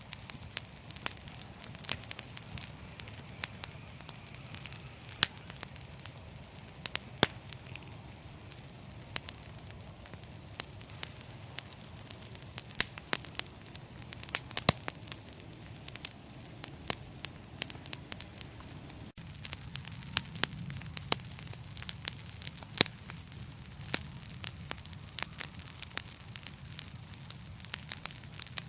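Wood fire in a fireplace crackling: frequent sharp pops and snaps, several a second, over a steady low rumble of the flames, with a split-second dropout about nineteen seconds in.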